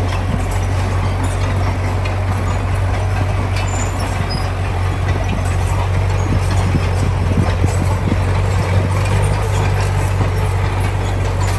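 Heavy diesel construction machinery running steadily under load, a constant low engine drone with scattered clanks and rattles.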